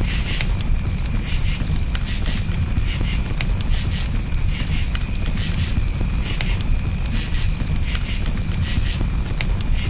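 Campfire crackling with sharp scattered pops over a low steady rumble, while crickets chirp in repeated pulsing bursts throughout.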